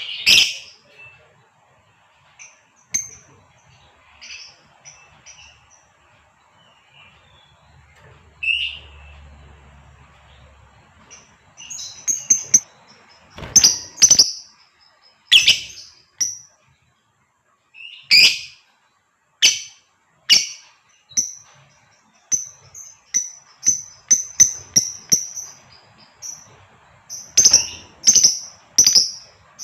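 Female lovebird giving short, sharp, high-pitched chirps and squawks. They come scattered at first, then thicker and louder from about halfway, with a quick string of chirps near the end. These are the hen's calls to a male.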